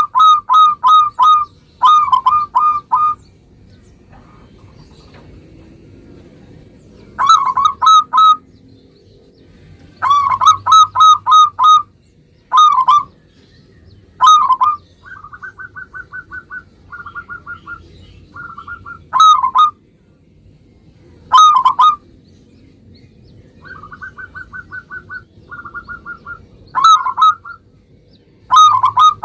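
Zebra dove (perkutut) singing: groups of loud, quick cooing notes repeated every second or two, with softer, faster rattling runs of notes in between.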